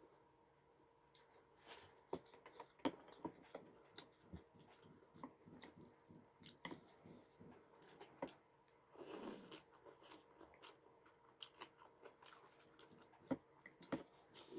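Close-up eating sounds: crunchy bites and chewing of spicy nam tok rice noodles with pork rinds and fresh vegetables, many short crackling clicks, with one longer, louder burst about nine seconds in.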